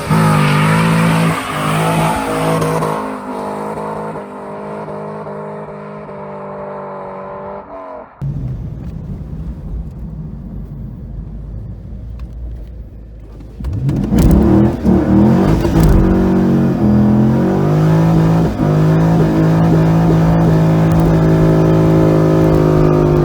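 2002 Corvette Z06's LS6 V8 under hard acceleration, settling into a steady drone. About eight seconds in, the sound drops abruptly to a quieter rushing stretch. Near fourteen seconds the engine revs up loudly again and holds a strong, steady drone.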